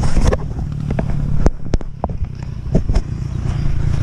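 Off-road enduro motorcycle engine running at low revs with a steady rumble, broken by several sharp knocks and clacks around the middle.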